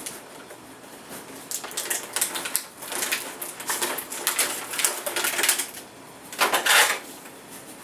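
Small plastic R/C helicopter being handled: a run of light, quick clicks and rattles, then a short louder burst of noise about six and a half seconds in.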